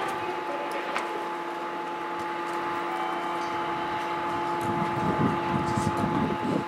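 Steady hum of a train at a station platform: two held tones over a rushing noise, with a couple of faint clicks, and a low rumble swelling slightly near the end.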